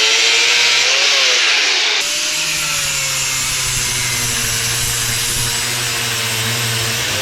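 A power tool cutting under load, a loud steady grinding noise with a motor hum; the pitch sags briefly about a second in, and the sound changes about two seconds in as it bites harder.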